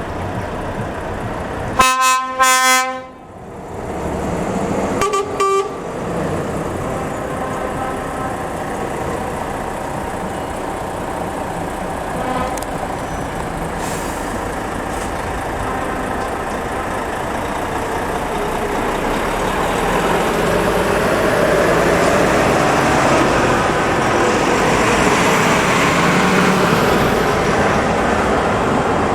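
Truck horn blasting twice in quick succession about two seconds in, then a shorter toot a few seconds later. After that, steady engine and road noise of passing trucks, growing louder toward the end.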